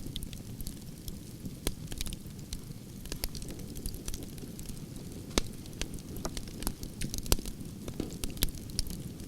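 Campfire of burning logs: a steady low rush of flames with frequent irregular crackles and sharp pops, two of them louder about five and seven seconds in.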